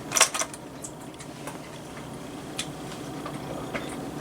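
A quick cluster of sharp clicks just after the start, then a few scattered light ticks, over a steady low hum.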